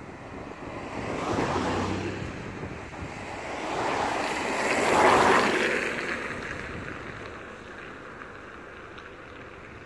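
Exo commuter train passing at speed: a rush of wheel and air noise that swells twice, loudest about five seconds in, then fades away as the train goes by.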